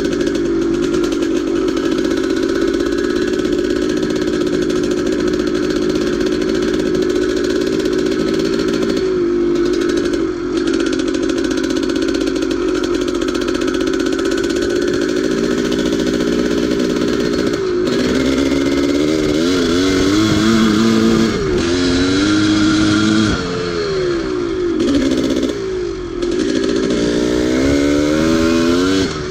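Old dirt bike engine running under way, holding a fairly steady speed at first, then, from about two-thirds of the way in, revving up and falling back again and again as the throttle is worked and gears change.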